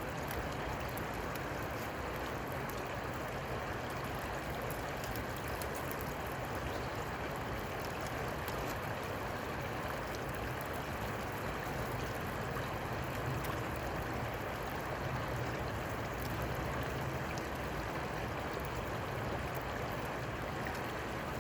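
Steady rushing of flowing river water, unchanging throughout, with a faint low hum underneath.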